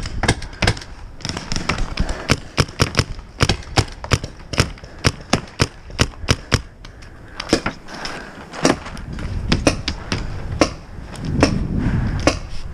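Paintball markers firing in rapid bursts, with sharp pops several a second, and a short lull about halfway through.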